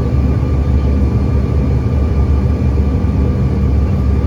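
Steady drone of an airliner's jet engines heard inside the passenger cabin: a low rumble with a constant whine over it, unchanging throughout.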